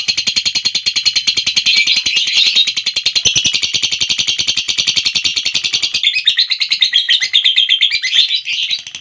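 Lovebird giving its long chattering trill (ngekek), an unbroken rapid string of shrill notes. The pattern of the notes shifts about six seconds in.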